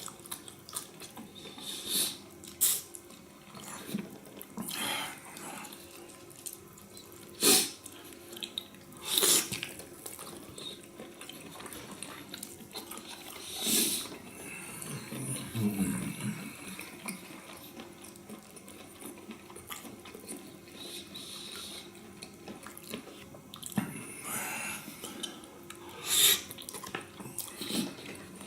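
Close-miked chewing and wet mouth sounds of someone eating sauced beef tongue: scattered smacks at irregular intervals, with a brief low hum about halfway through.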